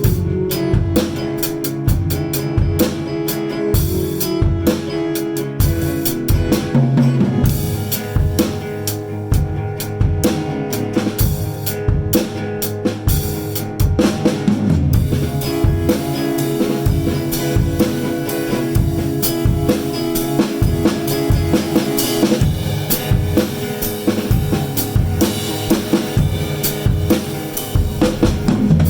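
Live improvised band music: a drum kit keeps a busy beat with kick, snare and rimshots under sustained keyboard and guitar notes.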